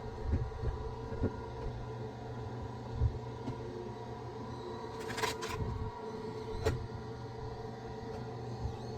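A small engine running steadily over a low rumble, with three sharp clicks a little past halfway.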